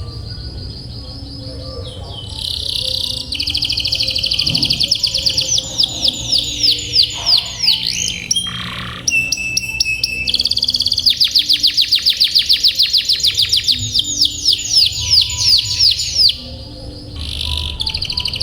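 Domestic canary singing long, fast trills (rolls) of rapidly repeated notes, in two long runs with short breaks between them.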